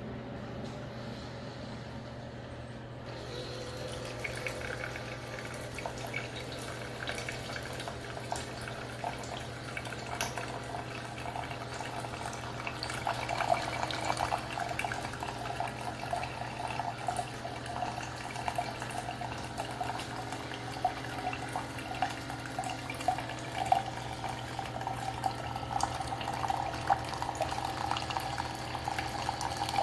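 Liquid trickling and dribbling into a container over a steady low hum, the trickle growing louder about a third of the way in.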